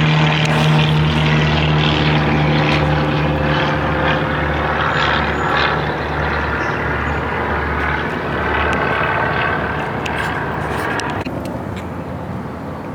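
Propeller airplane flying low overhead: a loud, steady engine drone that slowly fades away.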